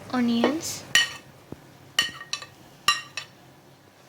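Metal utensil clinking against a metal pressure cooker pot, five sharp ringing clinks over about two seconds.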